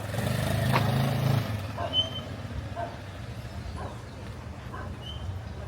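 A motor vehicle's engine running close by on the street, loudest in the first second and a half, then settling to a steady low hum. Two short high chirps sound about two seconds in and again near the end.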